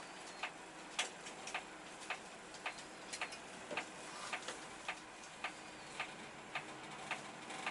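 Steady ticking of a vehicle's turn-signal relay, most likely the airport ramp bus's, at about two clicks a second.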